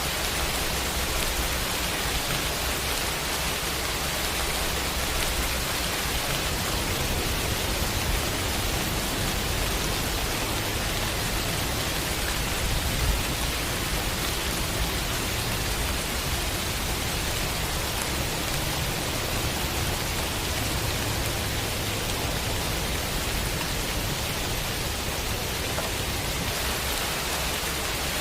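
Heavy rain falling steadily as an even hiss, with a low rumble swelling underneath through the middle stretch.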